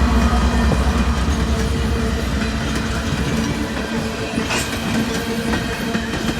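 Coal train rolling past: the cars' wheels click over the rail joints, with a steady low rumble that eases off over the first few seconds and a few faint steady wheel tones.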